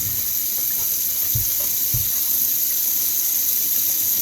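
Kitchen tap running in a steady hiss, with a couple of soft low knocks in the first half.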